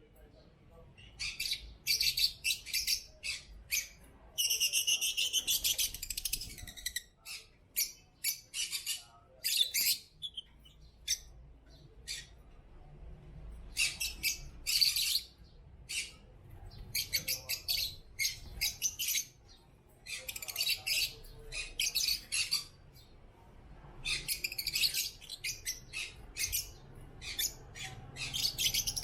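African lovebirds chirping and squawking in short high-pitched bursts, in clusters broken by brief pauses, with a longer busy run of calls about four to seven seconds in.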